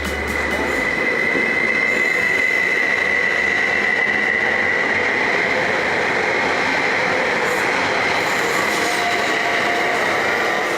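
Rail vehicle running on track: a steady rolling rumble with a steady high-pitched whine on top.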